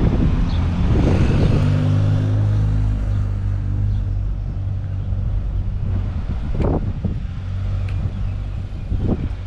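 A motor vehicle's engine running close by with a steady low hum, loudest in the first half and fading after about six seconds, over a constant low rumble of street noise.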